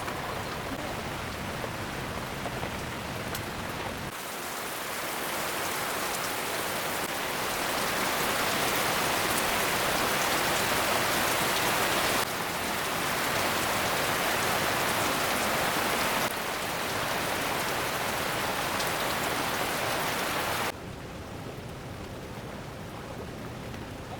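Heavy rain falling, a steady even hiss that jumps in level several times, loudest around the middle and softer near the end.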